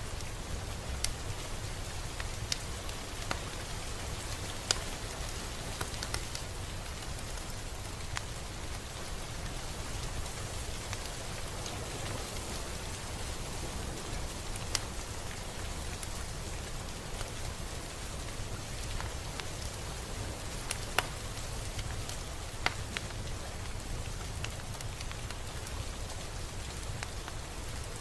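Steady rain falling on a surface, a constant hiss with scattered louder single drops clicking every few seconds over a low rumble.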